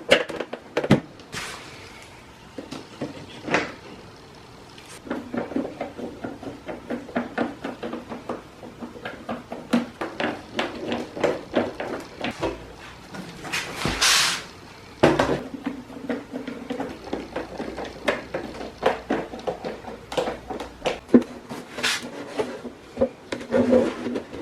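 Irregular clicks, taps and knocks of fridge door parts being handled and fitted together: thin plywood panels and plastic trim. About halfway through there is a louder rushing sound lasting about a second.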